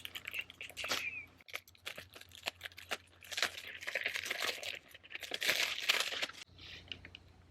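Packaging being handled and torn open: crinkling and rustling with many small clicks, in two louder stretches about three and five seconds in.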